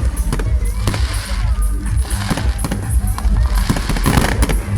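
Fireworks banging and crackling, many sharp reports in quick succession, mixed with music that has a heavy bass.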